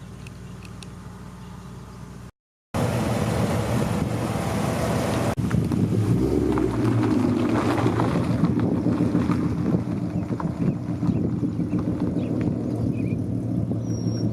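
2008 Ford Mustang 4.0 V6 with long-tube headers, cat deletes and Cherry Bomb glasspacks, its exhaust running loud and steady, with a deeper swell about six seconds in. Before a brief cut near the start there is only a quieter steady hum.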